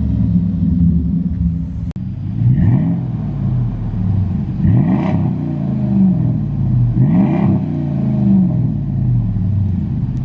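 V8 exhaust with the muffler deleted, idling and then revved in three short blips about two seconds apart.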